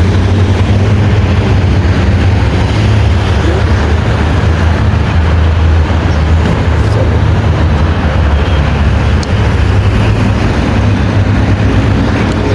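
Steady noise of road traffic passing on a busy road, with a heavy low rumble.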